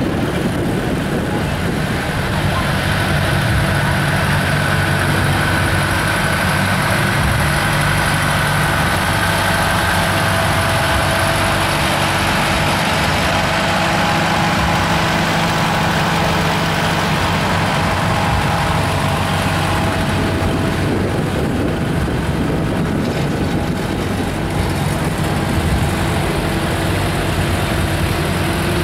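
Tractor engines running steadily as tractors drive slowly past in a parade, a continuous low engine drone.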